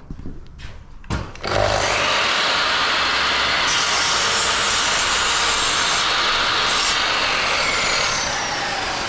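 A couple of knocks, then a Makita sliding saw and the Makita dust extractor connected to it start up about a second and a half in and run loudly. The blade cuts a piece of wood, then winds down with a falling whine near the end, while the extractor keeps running.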